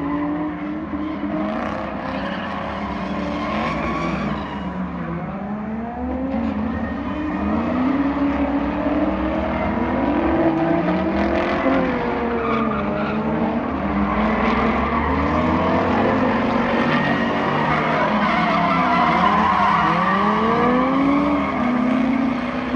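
Car engine revving hard up and down over and over as a car slides and does burnouts, with tyres squealing and skidding throughout. The revs sweep up and fall back every second or two, coming quicker and overlapping in the second half.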